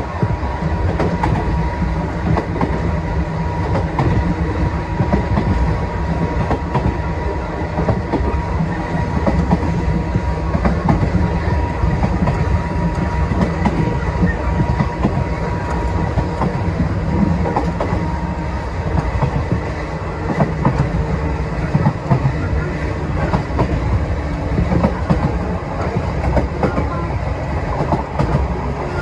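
Sangi Line electric train running steadily at speed, heard from inside the carriage: a continuous low rumble of wheels on rail with irregular clicks and clacks over the track and a faint steady high tone.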